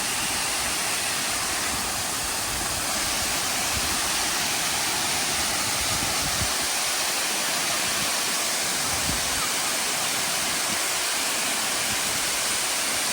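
Waterfall with water rushing steadily in an even, unbroken wash of noise.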